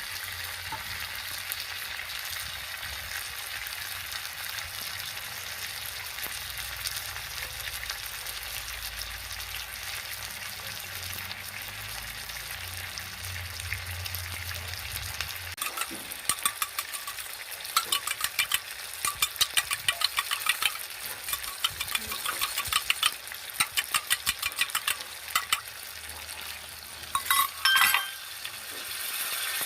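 Chicken frying in a pan with a steady sizzle. About halfway through, a metal spoon starts stirring it, giving quick repeated scrapes and knocks against the pan, and a few louder clinks come near the end.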